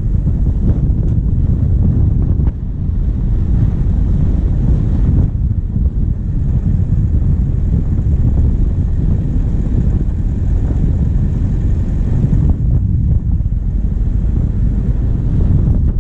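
Diesel vehicle driving along a track: the engine running steadily under a loud low rumble of wind buffeting the bonnet-mounted microphone.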